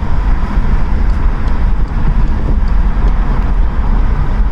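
Wind buffeting through a car's open windows at about 60 mph, heard inside the cabin, mixed with tyre and road noise: a loud, steady noise with a heavy low rumble.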